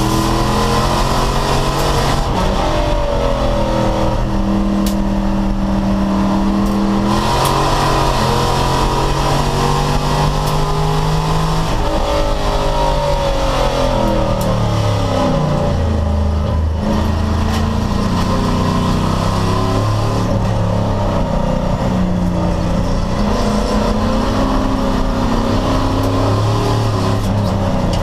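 Race car engine under full racing load, its pitch climbing and stepping down at each upshift. About halfway through it falls away for a few seconds as the car slows for a corner, then climbs again through the gears.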